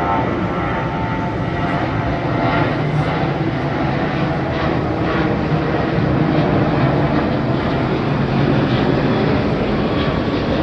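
Jet airliner engines rumbling steadily, with a faint whine in the first second or so.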